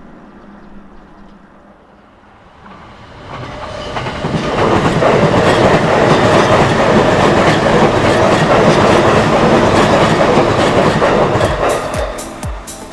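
An electric commuter train passing close by at speed, its wheels running over the rails. The sound builds from fairly quiet about three seconds in, stays loud for several seconds, and begins to fade near the end.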